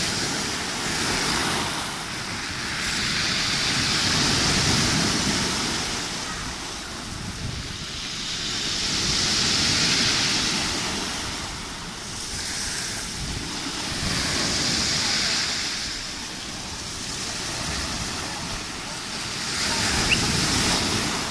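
Rough sea: waves breaking and washing on the shore in long surges that swell and fade about every five seconds.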